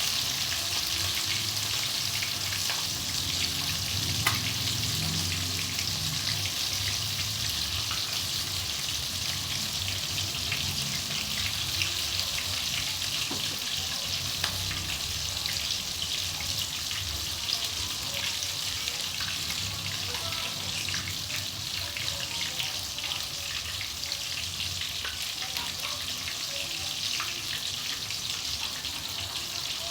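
Food frying in a hot pan: a steady sizzle with fine crackling throughout.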